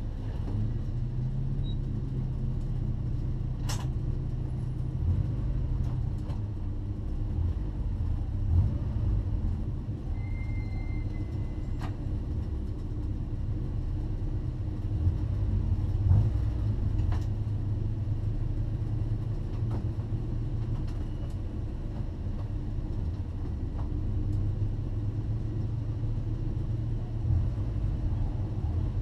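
Honda Prelude 2.2-litre four-cylinder race car engine running steadily at low revs with a low rumble, with a few sharp clicks along the way.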